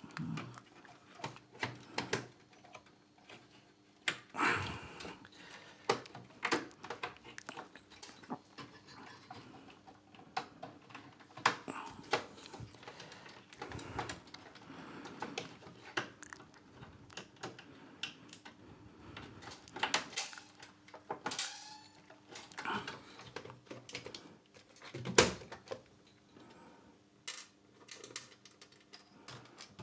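Irregular clicks, knocks and light metallic clatter of hands handling power-supply boards, metal parts and connectors during reassembly, over a faint steady hum.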